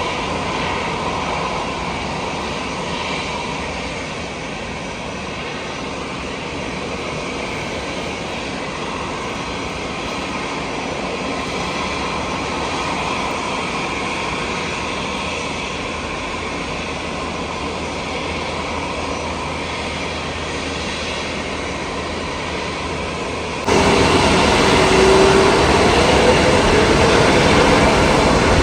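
Jet airliner engines running with a steady, even noise. About three-quarters of the way through the sound abruptly gets louder, and near the end a rising whine comes in.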